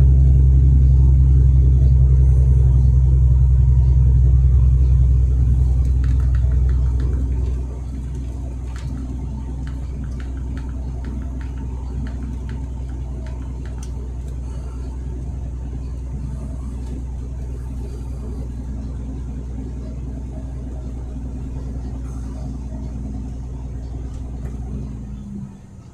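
Truck engine droning steadily, heard from inside the cab while driving. It is louder for the first seven or eight seconds, then drops suddenly to a lower, even drone, and falls off again near the end.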